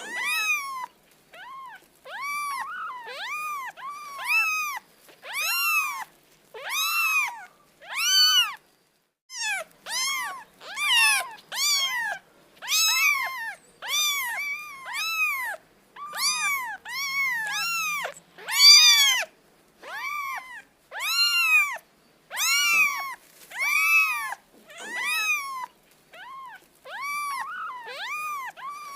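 A cat meowing over and over, about one high-pitched meow a second, each call rising and then falling in pitch, sometimes two in quick succession, with a short pause about nine seconds in.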